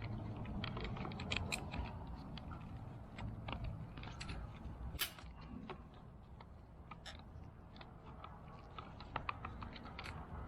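Irregular small clicks and taps of plastic fuel pump assembly parts being handled and pressed together, over a low steady background hum.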